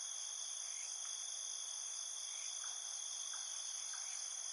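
Steady insect chorus of crickets or cicadas, a shrill continuous hiss of several high pitches, with faint short chirps every second or so underneath.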